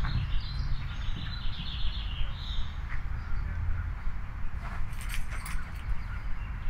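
Outdoor ambience: a small bird twittering for the first two or three seconds over a steady low rumble, then a few sharp clicks about five seconds in.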